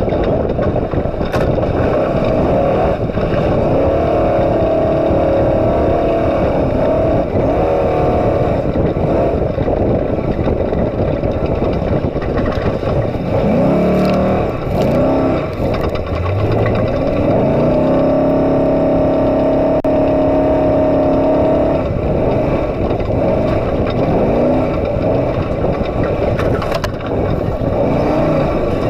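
Trophy truck's engine running hard at racing speed, its pitch rising and falling as it accelerates and shifts, over a constant rush of tyre and wind noise. About halfway through the pitch climbs several times in quick succession, then holds high for a few seconds.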